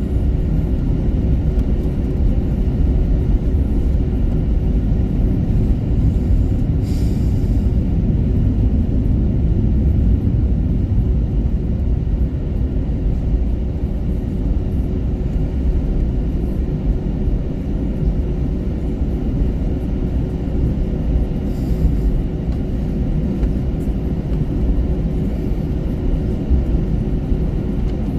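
Steady cabin rumble and hum inside an Airbus A321-200 with its engines running on the ground, with a brief rustle about seven seconds in.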